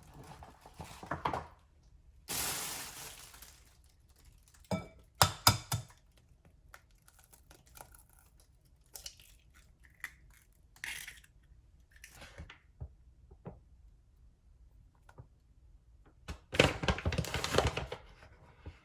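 Household handling noises: a short rustle about two seconds in, a few sharp knocks and clinks a few seconds later, scattered faint taps, and a longer rustling with knocks near the end.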